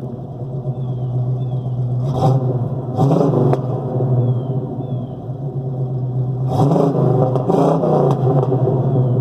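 Pontiac 389 V8 running through a dual exhaust with headers, X-pipe and chambered mufflers, idling with the throttle blipped: two short revs about two and three seconds in, then several quick revs in the second half.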